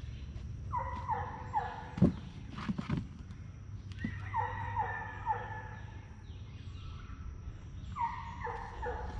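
An animal calling in three bouts of several short, falling notes, with a few dull thumps in between.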